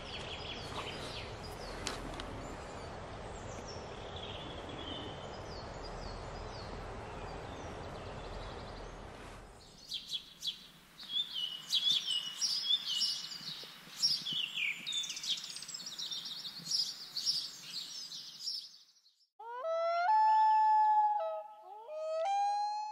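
Birds chirping over a steady rushing background. The background cuts off suddenly about ten seconds in, leaving a stretch of busy birdsong. Near the end, two loud pitched calls, each sliding up and then held, are the loudest sound.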